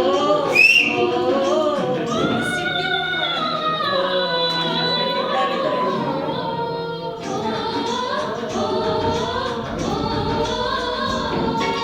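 Music: a group of voices singing a melody together, with pitches gliding from note to note.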